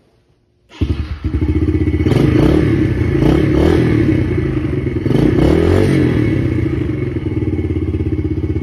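Yamaha TT-R110 dirt bike's small four-stroke single-cylinder engine starts up suddenly about a second in and runs loud, revving up and down a few times.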